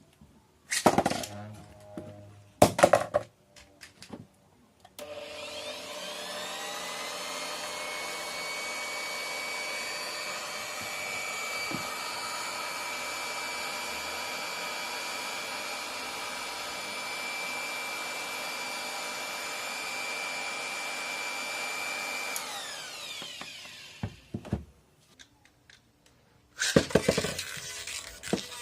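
Rock Leone 145WB Beyblade (a metal spinning top) launched and spinning, a steady grating whir with a high ringing tone that starts suddenly, holds for well over ten seconds, then slides down in pitch and dies away as the top loses speed. Short loud rattling clatters come before the launch and again near the end.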